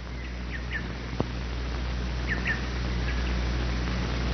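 Bird calling with short, high chirps, mostly in quick pairs, repeated several times over a steady low hum, with a single click about a second in.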